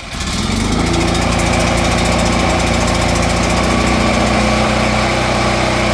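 Portable gasoline generator engine running on choke just after a key start, coming up to speed over the first second or so and then running steadily.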